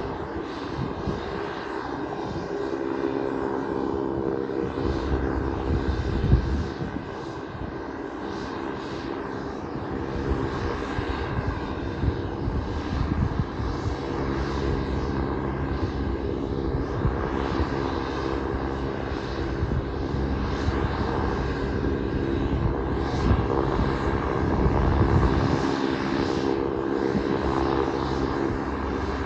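Pilatus PC-12's single Pratt & Whitney PT6A turboprop engine running steadily on the ground, a constant propeller drone with a high turbine whine above it.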